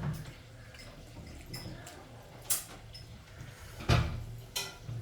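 Dishes and utensils clinking and knocking a few times during a meal: a sharp clink about two and a half seconds in, then heavier knocks near four seconds.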